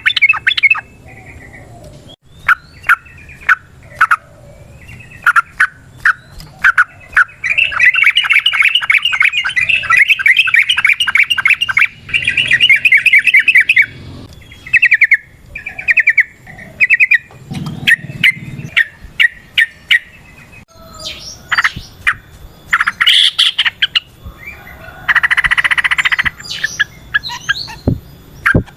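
Yellow-vented bulbul (trucukan) singing: loud sharp chirping notes, broken by a long rapid rolling trill lasting several seconds in the first half and a shorter rapid burst near the end.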